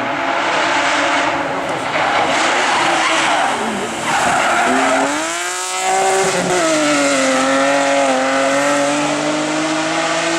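Hill-climb race car engine at high revs with tyres squealing. The engine pitch drops about four seconds in, jumps back up, then climbs steadily as the car accelerates.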